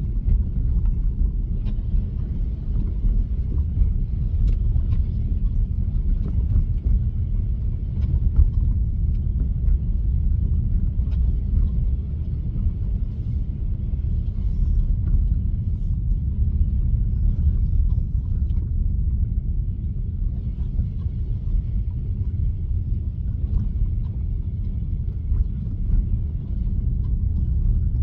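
Steady low road and tyre rumble heard inside the cabin of a Tesla electric car driving on a snowy road, with faint scattered ticks.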